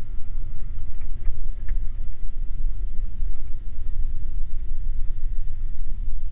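Steady low rumble inside the cabin of a Beechcraft G58 Baron, its two six-cylinder engines running at low power as the twin slows on the runway after landing, with a few faint ticks.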